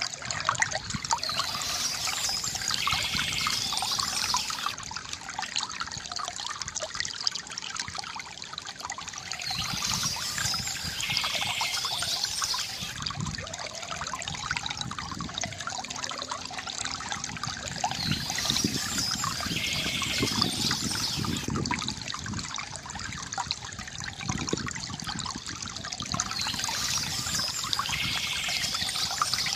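Water trickling and gurgling steadily from a bamboo fountain. A brighter, higher-pitched splashing patch comes back about every eight or nine seconds.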